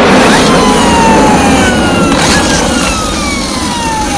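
A toy vehicle's motor whirring loudly over a rattling hiss. Several whines fall slowly in pitch as it winds down.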